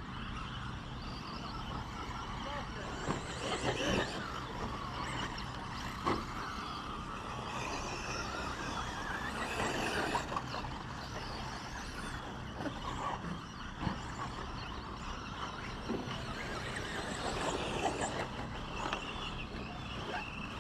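Radio-controlled 2WD short course trucks racing, their motors whining up and down in pitch as they speed up and slow down, over a steady low hum.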